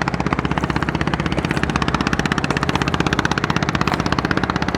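Small river boat's engine running steadily with a fast, even chugging.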